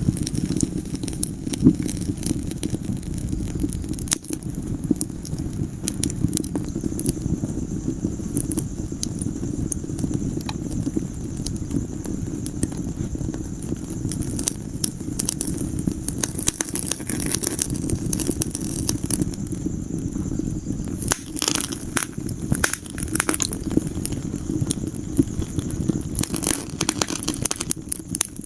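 Wood fire burning in a fireplace: a steady low rush of flame with frequent crackles and pops of burning logs, the pops coming in louder clusters in the second half.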